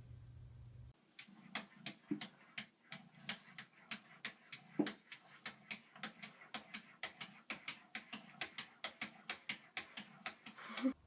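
A quick, uneven series of light clicks or taps, about five a second, starting about a second in.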